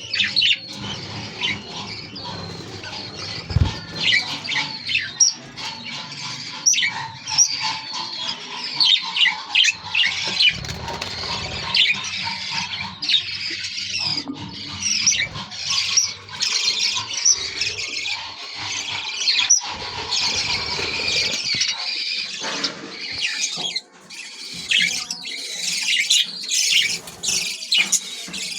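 Pet budgerigars chattering without a break: a dense stream of quick high chirps, squeaks and warbles.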